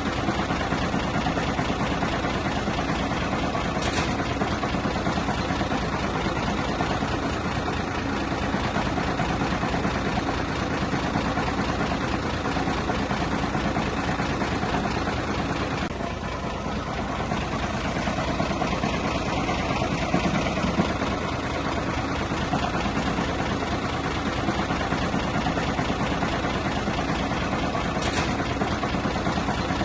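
Diesel engine of heavy earthmoving machinery running steadily. A short, sharp high sound comes about four seconds in and again near the end.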